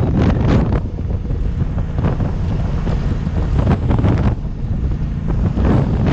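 Wind buffeting the microphone on a moving Honda Africa Twin motorcycle, over a steady low rumble. The gusts ease for a few seconds, then build again near the end.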